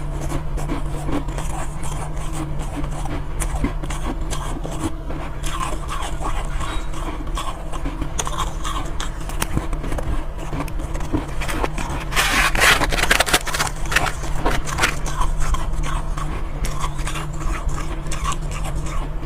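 Soft ice being crunched and chewed close to the microphone: a dense run of small crackles and crunches, with a louder, crunchier stretch about two-thirds of the way through, over a steady low hum.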